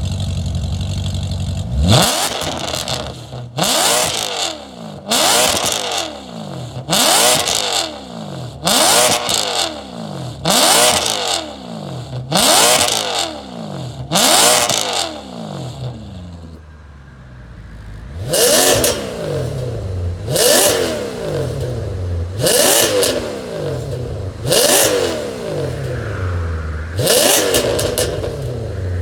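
Maserati Quattroporte engine through an EXHAUTECH variable-valve exhaust, idling and then blipped to high revs over and over, about one quick rev every two seconds. Each rev rises and falls in pitch with an ultra-high exhaust note. It settles back to idle briefly around the middle.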